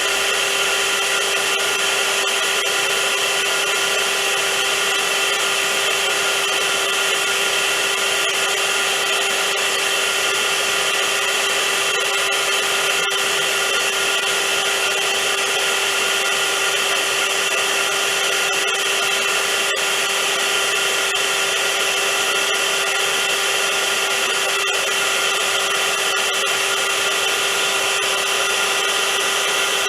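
Vacuum cleaner motor running continuously: a steady rush of air with a low hum and several higher whining tones held without change.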